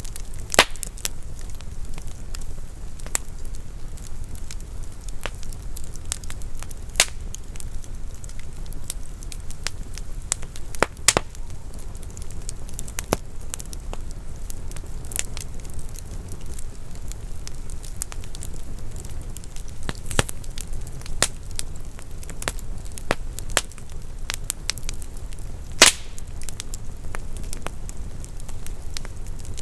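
Wood fire burning in a fireplace: a steady low rumble of flames with irregular crackles and occasional sharp pops from the burning logs.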